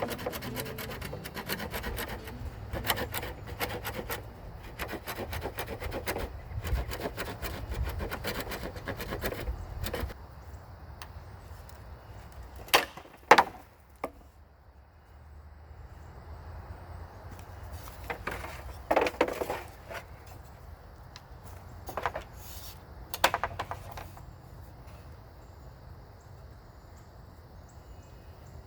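Wood being worked by hand: sticks and branches rubbing and scraping against each other, busy for the first ten seconds, then a few loud sharp cracks and knocks spaced several seconds apart.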